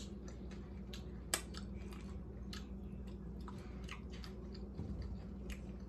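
Close-miked chewing of a crunchy taco, with irregular small crunches and wet mouth clicks. There is one sharper crunch about a second and a half in, over a steady low background hum.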